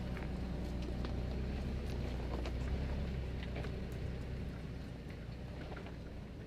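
Toyota 4Runner engine running with a steady low hum, a few faint ticks over it, slowly fading out.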